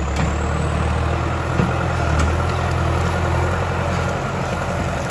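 Turbo-diesel farm tractor engine running steadily, a deep even hum with a faint steady whine over it.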